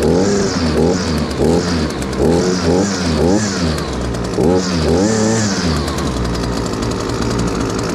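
Husqvarna 326LD string trimmer's small two-stroke engine running and being revved up and down repeatedly, its pitch rising and falling about every half second, then settling to a steadier run near the end. It is running again after the fuel line repair and hard starting.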